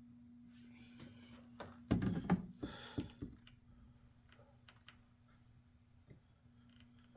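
Motor oil glugging out of a 5-quart plastic jug into a funnel: a short run of gurgling pulses about two seconds in, then a few faint clicks, over a steady low hum.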